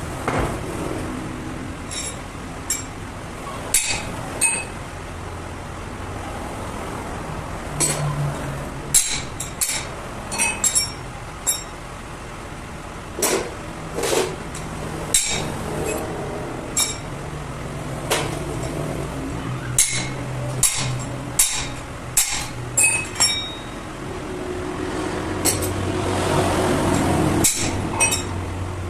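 Irregular metallic taps, knocks and clinks of hand tools against metal parts, heard many times over a steady low hum. A louder swell of noise rises and fades near the end.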